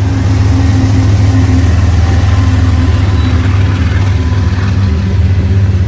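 Diesel freight locomotives of a grain train passing close, a loud steady low engine drone.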